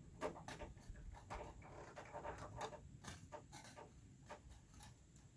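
Faint, irregular light clicks and knocks, a few a second, over a low background rumble.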